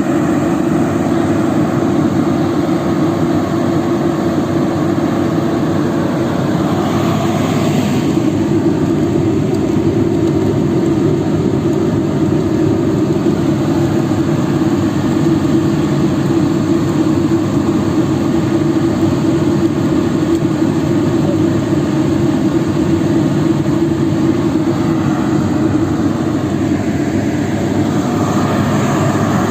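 Excavator's diesel engine running steadily, with slight shifts in tone about eight seconds in and again near the end.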